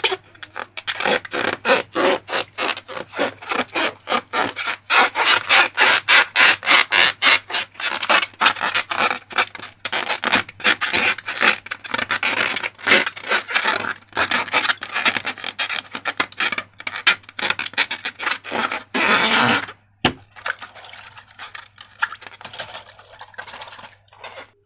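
Rapid rubbing and scraping strokes, several a second, then one longer, louder rush about nineteen seconds in, followed by softer, sparser strokes.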